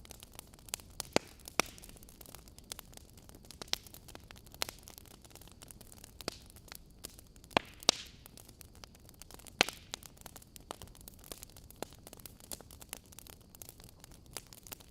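Wood fire burning in a fireplace: a soft steady hiss with irregular sharp crackles and pops, a few of them much louder than the rest.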